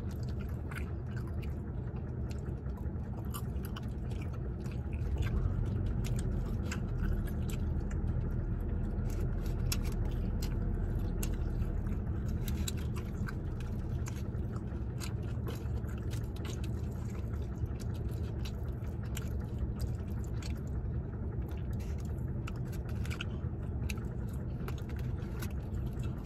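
Close-up chewing and biting of small fried street-food pieces, with many small sharp mouth clicks and crunches, over a steady low rumble of the car interior.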